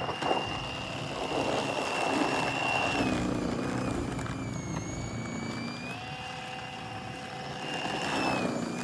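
Voltask battery-powered electric snow shovel running with a steady high motor whine as it throws snow. Its pitch sags for a few seconds in the middle as it takes a load of snow, then climbs back.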